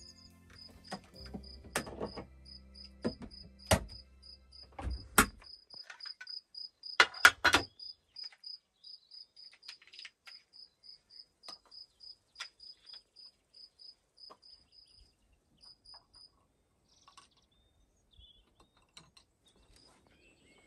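A cricket chirping in a steady rhythm of about four high chirps a second, stopping about sixteen seconds in. A few sharp knocks fall in the first eight seconds, the loudest a quick cluster about seven seconds in.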